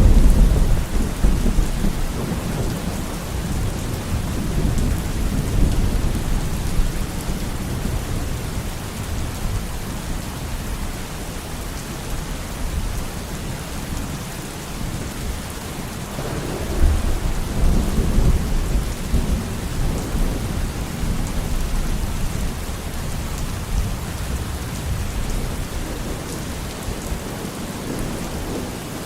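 Steady heavy rain falling, with deep rolls of thunder: one loud clap rumbling down at the start and another long rumble about halfway through.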